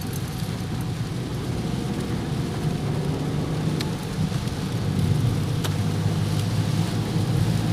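Car driving on a wet road in the rain, heard from inside: a steady low rumble of engine and tyres under a hiss of rain, with a few faint ticks.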